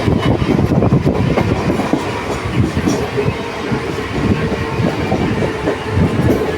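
Train running along the track: a steady rumble with the clatter of wheels over the rails, and a faint steady whine joining about halfway through.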